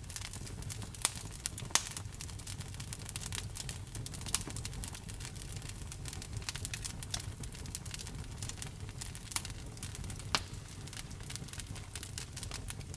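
Wood campfire burning and crackling: irregular snaps and pops, a few louder ones about a second in, near two seconds and around ten seconds, over a low steady rumble of the fire.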